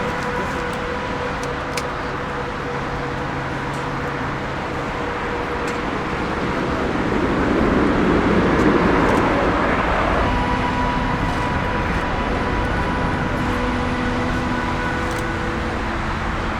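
Jet airliner engines with a steady rumble and a faint held whine, swelling to a peak about eight seconds in and then easing off as the aircraft passes.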